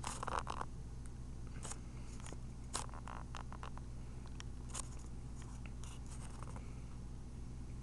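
Scattered small clicks and scrapes from close handling of a camera and a parrot chick, over a steady low hum.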